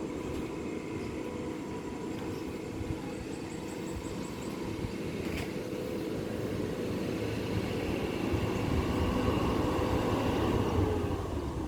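Low steady rumble with a faint hum, like a distant engine, growing slightly louder in the second half.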